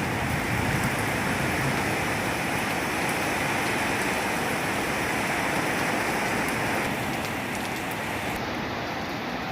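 Heavy rainstorm with strong wind: rain pouring down and wind blowing, a steady, even noise.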